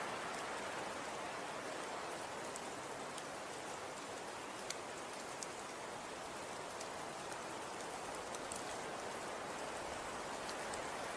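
Falling snow: a steady, even hiss with scattered faint ticks.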